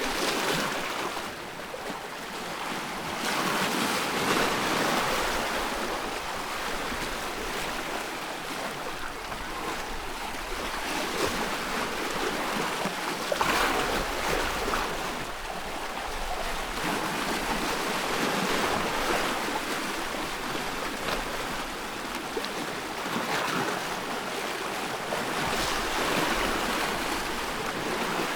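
Ocean waves breaking and washing on the shore, a steady hiss of surf that swells and fades every few seconds.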